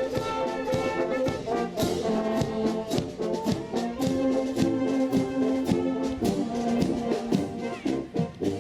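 Volunteer fire brigade brass band playing, trombones and trumpets carrying held notes over a steady drum beat.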